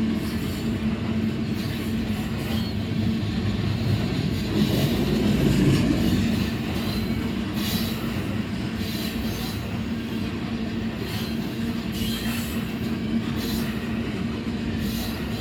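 Tank cars of a unit tank train rolling past at close range as it drifts downgrade: a steady rumble of steel wheels on rail with a steady low tone running through it, and scattered clicks as the wheels pass over the track.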